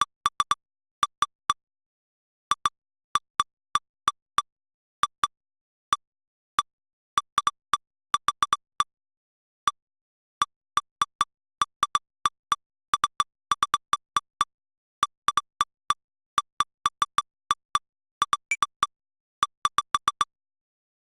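Short, identical electronic blips pitched around 1 kHz, sounding irregularly, often in quick runs of two to five with silent gaps between. Each blip is the detector software's alert for a lightning strike.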